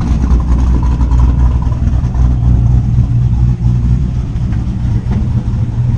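Car engine running steadily with a deep, even rumble.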